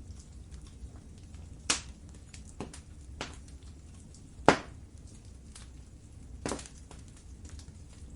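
Wood fire burning in a fireplace: a steady low rumble of flames with scattered sharp crackles and pops, five of them clearly louder. The loudest is about four and a half seconds in.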